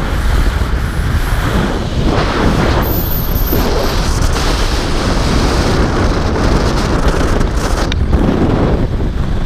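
Loud, continuous wind rushing and buffeting over the microphone as the jumper drops down the SkyJump descent line.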